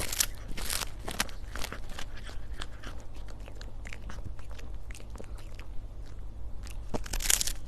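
A cat chewing and crunching its food in irregular crunches, busy at first, sparse in the middle and louder again near the end.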